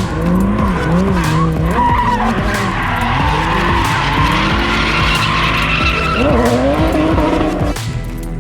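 Drift car on track, its engine revving up and down as it slides, with tyres squealing. The sound eases off near the end.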